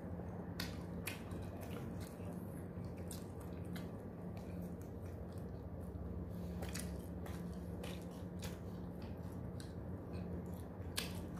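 Two people eating chapatti flatbread with mutton paya: chewing and mouth clicks, and the bread being torn by hand, in many short, irregular clicks over a steady low hum.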